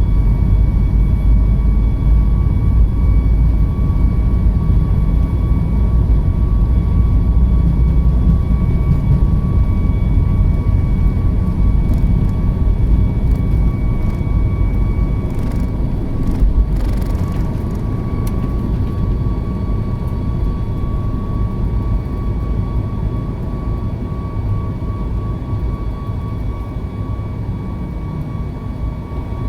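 Boeing 737 MAX 8's CFM LEAP-1B jet engines at take-off power, heard from inside the front of the cabin. A heavy low rumble runs under a steady high engine whine. The rumble eases gradually over the second half.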